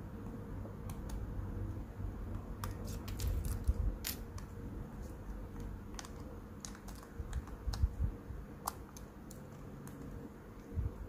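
Light, irregular clicks and taps of small repair tools and parts against an opened iPhone 4s as it is being reassembled.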